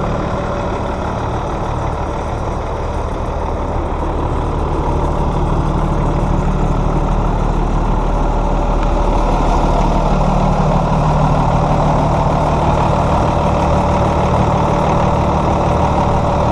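2008 Hino 338 box truck's diesel engine idling steadily.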